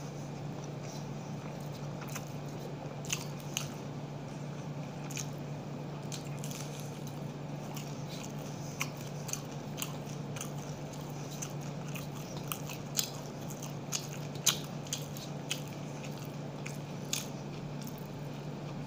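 Close-up mouth sounds of a person chewing rice and a fried besan pakora, with scattered short crunches, over a steady low hum.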